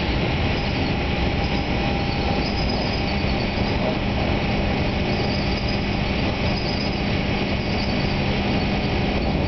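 Running noise inside a New Jersey Transit Arrow III electric multiple-unit railcar travelling at speed: a steady rumble. A steady low hum joins about two seconds in.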